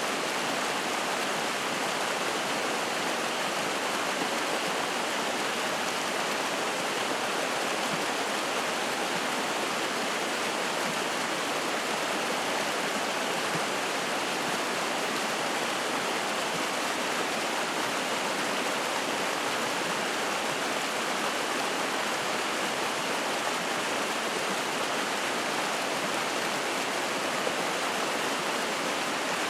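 Spring-fed mountain stream rushing and splashing in a steady, unbroken flow.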